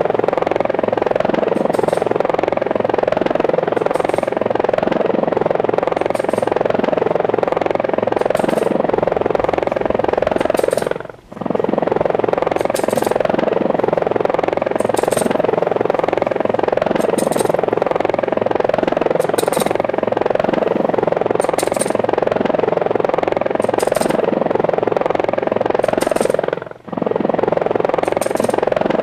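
Steady helicopter rotor noise, dropping out briefly twice about sixteen seconds apart.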